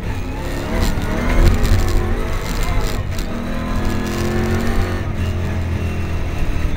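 Rally GU Nissan Patrol heard from inside the cabin, its engine running hard on a rough dirt track, pitch climbing and dropping with acceleration and gear changes, with knocks and rattles from the body over the bumps.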